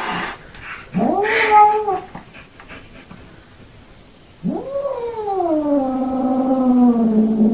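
White cat yowling at its own reflection in a mirror, taking it for a rival cat: a short call about a second in, then a long drawn-out call from about four and a half seconds on that starts high and slowly falls.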